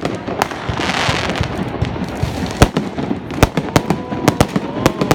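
Aerial fireworks going off: a string of sharp bangs from bursting shells at irregular intervals, with a crackling hiss about a second in.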